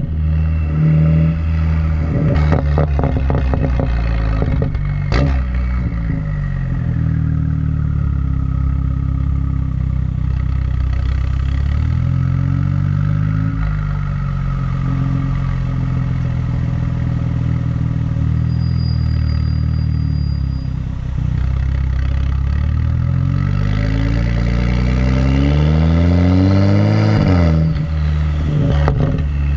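Exhaust of a BMW 135i's N55 turbocharged straight-six, run catless with the muffler deleted, its pitch falling and rising as the car is driven. Near the end a long climb in revs breaks off sharply. Crackles and pops come a few times early on and again after that drop.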